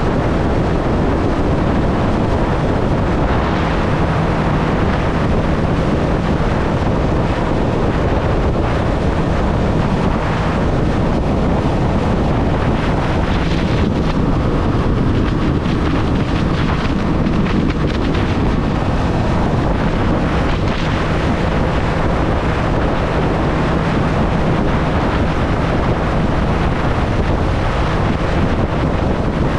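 Heavy wind noise on the microphone while riding a Triumph Street Triple, with the motorcycle's three-cylinder engine running steadily underneath.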